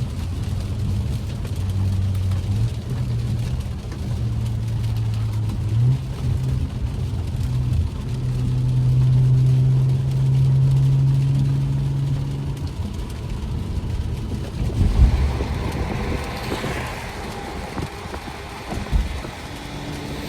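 BMW F10 535i's turbocharged straight-six running through a resonator- and muffler-deleted exhaust under steady throttle. The engine note climbs in pitch about six seconds in, holds, and then eases off after about twelve seconds. A thump comes about fifteen seconds in, followed by a brief hiss.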